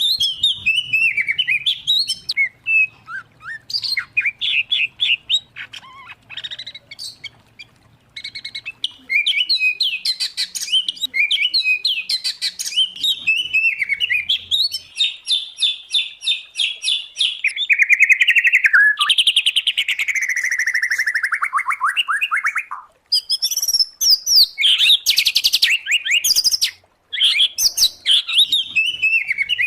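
Songbirds in full song, either white-rumped shama, oriental magpie-robin or greater green leafbird: a loud, varied run of quick chirps, rapid trills and chattering phrases. In the second half comes a long whistle that slides steadily downward, and there are two brief pauses near the end.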